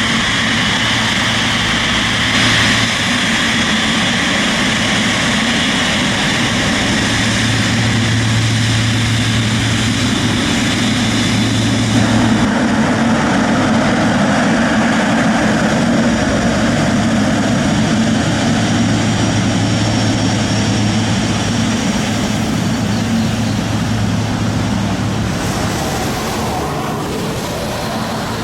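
Boeing 777's GE90 jet engines in reverse thrust after touchdown: a loud, steady rush of engine noise that eases off a little over the last few seconds as the engines spool down.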